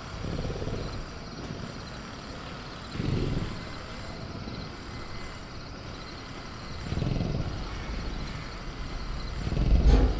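Jungle-night ambience from a sound-effects track of a caged velociraptor: a steady bed with faint high cricket chirring, and low rumbling swells that rise and fade about every few seconds, growing near the end.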